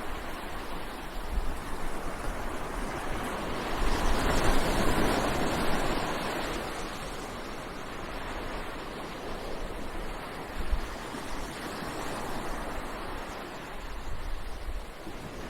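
Ocean surf washing onto a beach, swelling to its loudest about four seconds in as a wave breaks, then easing to a steady wash.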